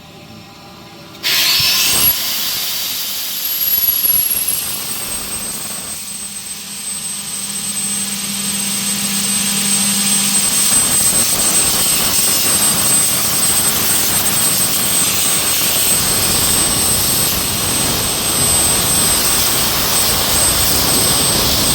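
Compressed air from a 30 HP screw compressor rushing out through a valve opened all the way: a loud, steady hiss that starts suddenly about a second in, with a thin high whistle running through it; the air is coming out very fast and very strong.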